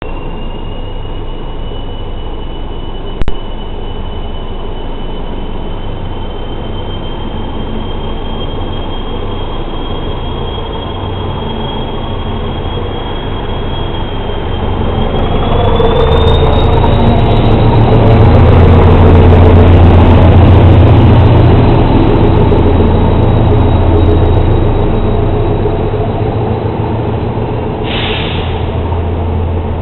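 SM42 diesel-electric shunting locomotive hauling a rake of passenger coaches past, its diesel engine drone swelling loudest about two-thirds of the way through. A long, thin squeal slowly rising in pitch runs through the first half, with a sharp click a few seconds in and a short hiss near the end.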